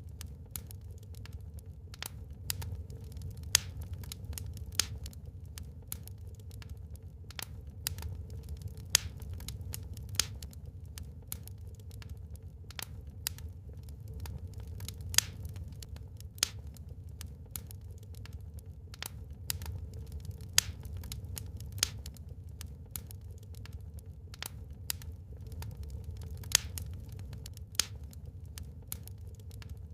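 Wood fire crackling in a fireplace: frequent irregular snaps and ticks with a dozen or so louder pops, over a steady low rumble.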